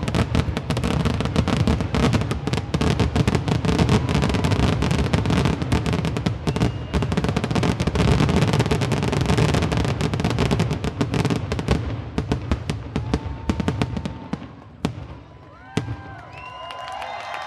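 A fireworks grand finale: a dense, continuous barrage of bangs and crackling. After about twelve seconds it thins to scattered single bangs, with two loud reports near the end. In the last couple of seconds, high whistles start up.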